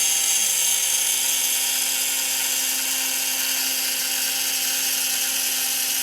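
Hobby CNC router's spindle running steadily with a high whine while it cuts a calibration test piece in wood.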